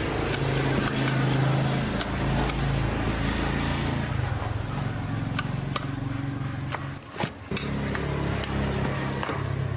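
A motor running steadily with a low hum, broken by scattered sharp clicks and knocks of work. The hum drops out briefly about seven seconds in.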